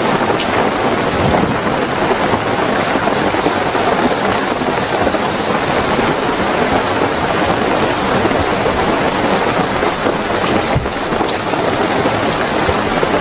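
Steady heavy rainfall, with a faint, high, steady cricket trill above it.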